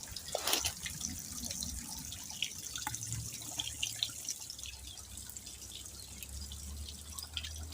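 Small waterfall trickling and dripping, with scattered droplet ticks over a steady wash of water. A short puff of blowing comes about half a second in.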